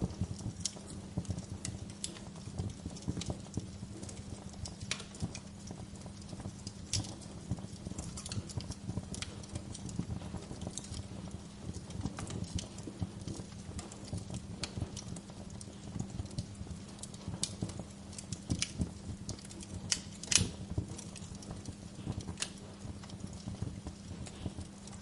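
Wood fire in a fireplace crackling, with irregular sharp pops and snaps over a steady low rumble of the burning, one pop louder than the rest about twenty seconds in.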